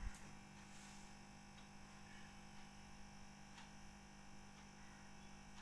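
Near silence with a faint steady electrical hum and a single click at the start.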